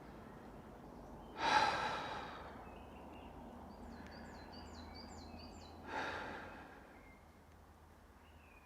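A man sighs heavily twice, long exhalations about a second and a half in and again near six seconds, with faint bird chirps in between.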